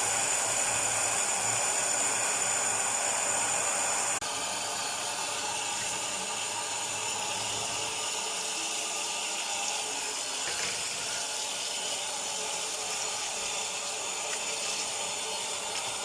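Water running steadily from a tap, as in rinsing freshly harvested vegetables. The sound changes and drops a little about four seconds in.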